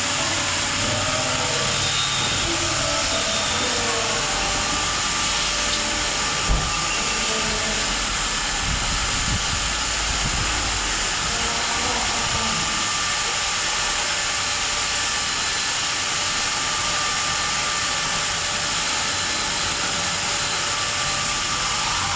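High-pressure washer spraying steadily, a hiss over the whine of its motor, with one sharp click about six seconds in.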